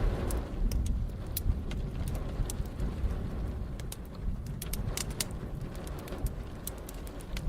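Wood fire crackling with scattered sharp pops, over steady rain and a low rumble of thunder that dies away over the first second or two.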